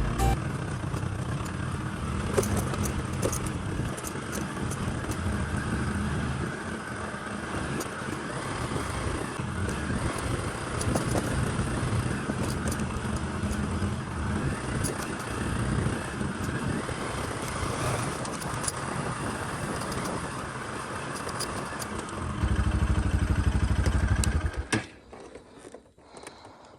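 Wind buffeting the microphone while riding, with rattling and clicking from the bicycle over rough ground; the wind rumble grows louder near the end, then the sound drops away suddenly.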